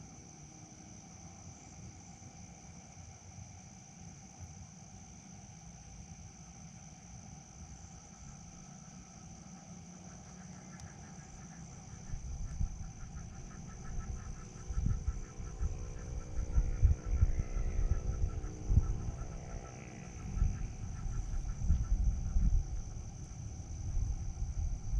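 Crickets chirring in a steady, high, unbroken trill. From about halfway, gusts of wind buffet the microphone with low, uneven rumbles that come and go.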